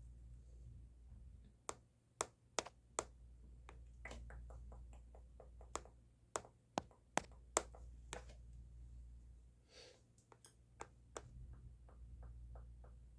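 Close-up sharp clicks and ticks at an uneven pace, with louder clusters about two seconds in and around seven seconds. A brief soft swish comes near ten seconds, over a low steady hum.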